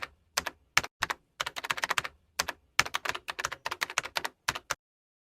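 Typing: rapid key clicks in quick runs with brief pauses, stopping abruptly near the end.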